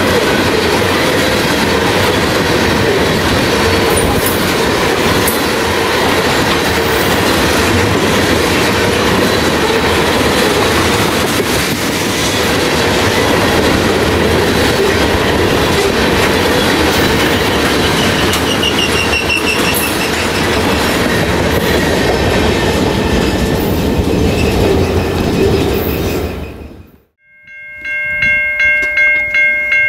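Freight train of tank cars rolling past close by: the steady rumble and clatter of steel wheels on the rails, with a brief high wheel squeal about twenty seconds in. The train sound fades out near the end, and a ringing tone that pulses several times a second follows.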